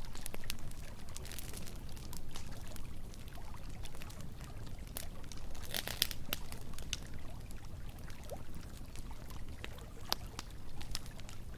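Campfire crackling, with scattered sharp pops and a brief louder burst about six seconds in, over the steady rush of flowing river water.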